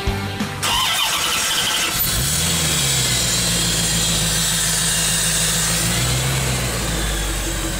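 The 1934 Chevrolet Master Deluxe's 5.7 L LT1 V8 is started: a short spell of starter cranking, then the engine catches about two seconds in and runs at a raised fast idle. Near six seconds in, the idle drops and settles to a lower steady speed.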